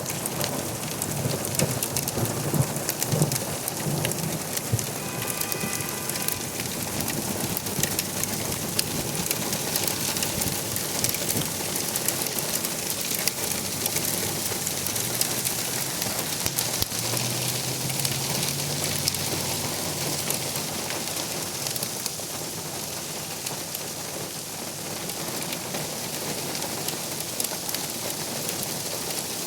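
Hail and rain pelting down hard: a dense patter of many small sharp impacts over a steady hiss. A low rumble sounds in the first few seconds.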